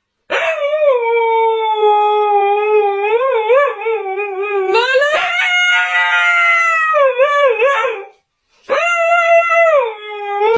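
A dog howling: one long howl of about eight seconds with a wavering pitch that climbs higher about halfway through, then after a brief pause a second, shorter howl.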